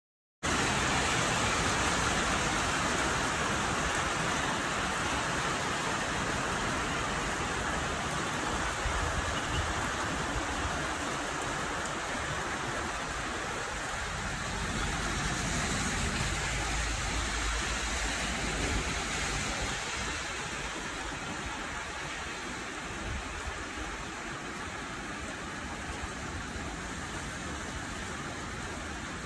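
Heavy rain falling: a steady hiss that eases slightly toward the end, with low rumbling now and then.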